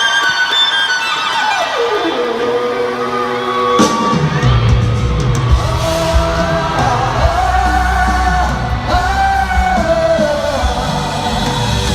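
Live rock band with a singer. A held high note slides down over the first two seconds, then the full band with bass and drums crashes in about four seconds in and the singing carries on over it.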